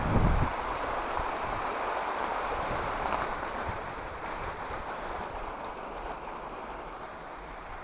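Wind buffeting the action camera's microphone for about half a second, then a steady rushing hiss that slowly fades.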